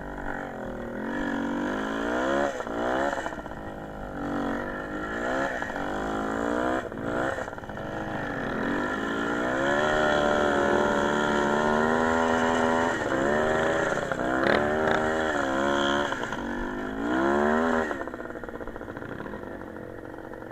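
Small motorcycle engine revving up and dropping back again and again, the pitch climbing with each rise. It holds a steady high note for a few seconds about halfway through, then settles to a lower, quieter run near the end.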